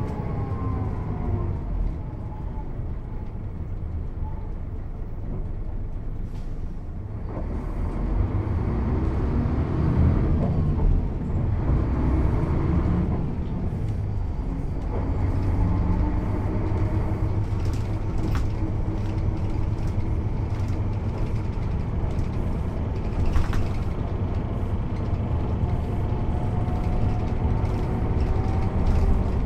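Mercedes-Benz O 407 city/regional bus with a manual gearbox, heard on board while driving: the diesel engine and drivetrain run continuously, their pitch falling at the start as the bus slows, louder through the middle, and a tone rising again near the end as it pulls away.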